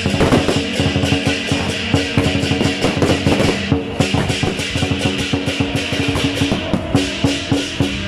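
Loud music with held notes, and over it a dense, irregular crackling and popping of aerial fireworks bursting overhead.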